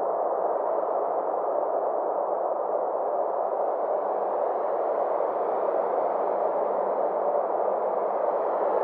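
Synthesized space ambience: a steady band of soft rushing noise whose brightness slowly swells and fades.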